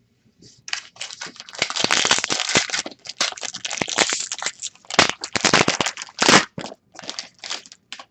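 A Prizm basketball card pack's wrapper being torn open and crinkled: dense, loud crackling with a short break partway through, fading to a few brief crinkles near the end.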